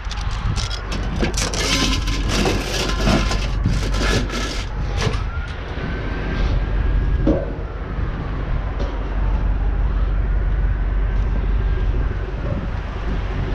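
A siren wailing slowly up and down, faint beneath a steady low rumble of wind or a vehicle, with scattered knocks and rattles in the first few seconds.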